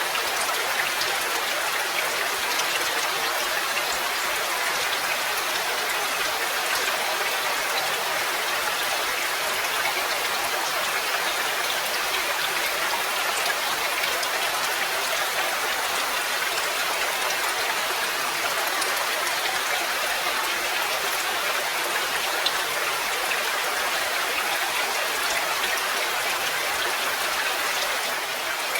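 Steady rain falling, an even hiss of many drops with fine patters of individual drops landing on surfaces.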